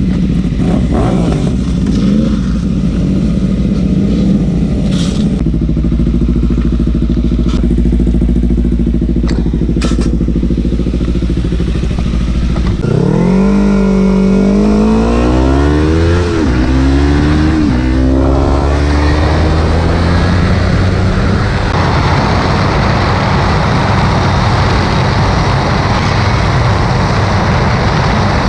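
Kawasaki Ninja 300's parallel-twin engine idling steadily, with a few sharp clicks, then about halfway through the revs rise and drop several times through the gears as the bike pulls away. Near the end a steady rush of wind and road noise on the helmet/bike-mounted microphone takes over from the engine note.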